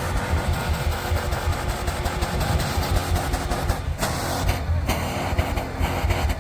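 Off-road vehicle engine running steadily, its low rumble mixed with rough noise, with a brief dip about four seconds in.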